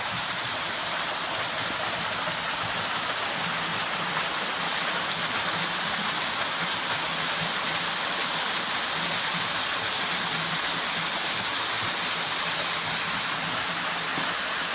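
Waterfall pouring steadily into a pool, a constant rush of falling water, swollen by rain a couple of days earlier so it is flowing heavily.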